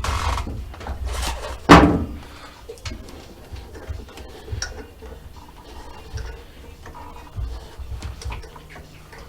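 A motorcycle being pushed onto a metal hydraulic lift table, with a loud clunk just under two seconds in, then lighter knocks and rattles of the bike and the table's ramp and wheel clamp.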